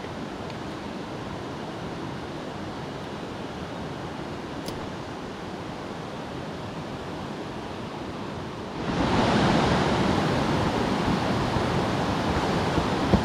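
Steady rushing of a mountain stream, which becomes noticeably louder and fuller about nine seconds in.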